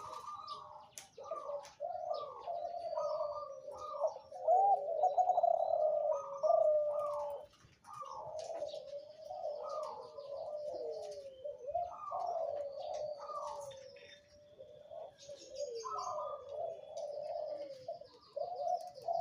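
A derkuku dove of the Kelantan type cooing over and over in rolling phrases, one after another with short breaks. Small birds chirp faintly in the background.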